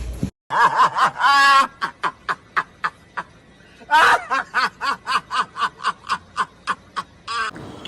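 A person laughing: a drawn-out voiced sound, then long runs of short, quick 'ha' pulses at about four a second.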